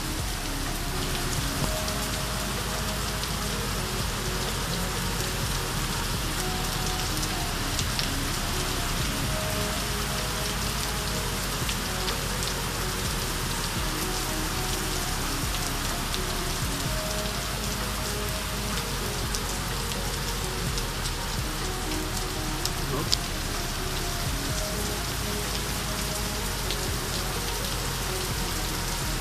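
Steady rain falling, with individual drops ticking on hard surfaces.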